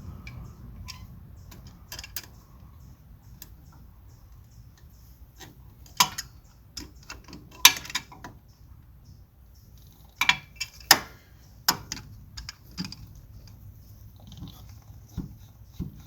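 Channellock tongue-and-groove pliers clicking and clinking on a metal hose clamp as it is worked along a hose. The clicks are irregular and scattered, with the sharpest ones about halfway through and again about two-thirds of the way in.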